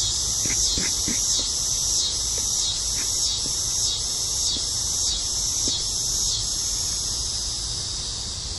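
A chorus of night insects trilling in a high, pulsing drone that swells just under twice a second.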